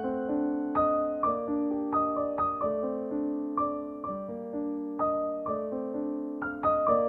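Soft background piano music: a gentle melody of struck notes, several a second, each ringing and fading.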